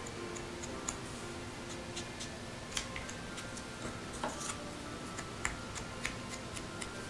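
Irregular light taps and clicks of an ink applicator dabbing ink onto the edges of a mat board cut-out, a click every second or so.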